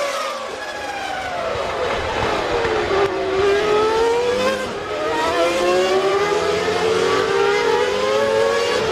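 Formula One racing engines at high revs. The pitch falls for about three seconds as the car slows, then climbs again in steps through the gears as it accelerates away.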